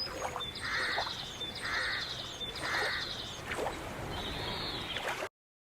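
Bird calling three times, about a second apart, each call with a fast trill, over a steady background hiss. A single rising-then-falling call follows, before the sound cuts off near the end.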